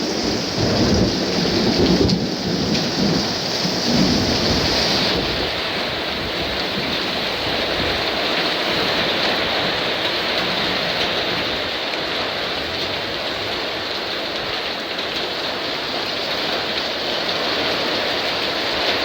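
Heavy thunderstorm downpour: thunder rumbles through the first few seconds, then dies away, leaving steady heavy rain.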